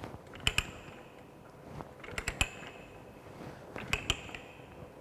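Ratchet pipe-threading die stock clicking as its handle is worked in short strokes to cut a thread on a galvanized steel pipe: three quick clusters of two or three sharp metallic clicks with a brief ring, about a second and a half apart.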